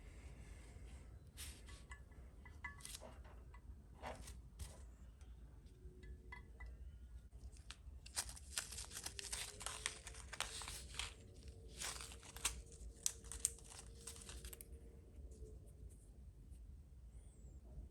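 Light, scattered clicks and taps of small parts being handled, then from about eight seconds in several seconds of crinkling, tearing noise, like plastic film or packaging being pulled and crumpled.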